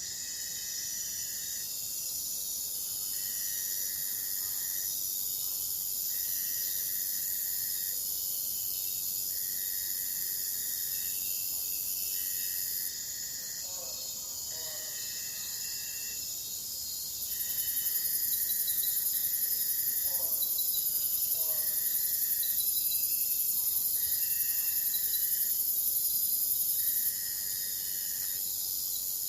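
Insects trilling: a continuous high-pitched trill with a lower trill pulsing on and off about every two seconds. A few faint bird chirps come through. The high trill grows louder for about ten seconds past the middle.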